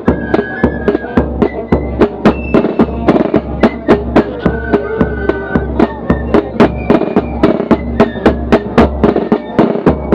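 Corps of drums and flute band playing a march: snare and bass drums beating a steady rhythm, loud and close, with flutes carrying the melody over them.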